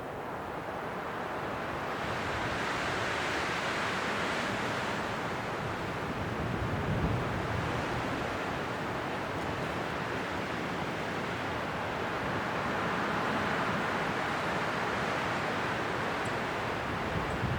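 Strong winter wind blowing in gusts, a steady rushing that swells about two seconds in and again later.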